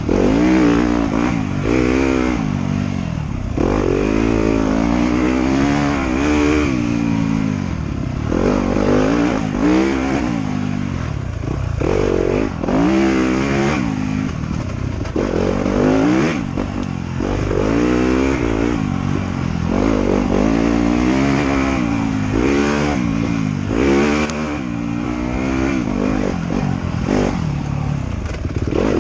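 Motorcycle engine being ridden hard on a trail, its pitch climbing and dropping again and again, every second or two, as the throttle opens and closes through the turns.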